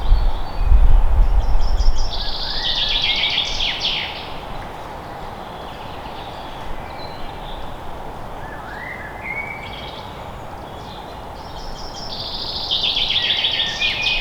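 A songbird singing a rapid, dense trilling phrase twice, about ten seconds apart, with a few fainter short calls between, over a steady hiss of forest background. A low rumble is heard in the first two seconds.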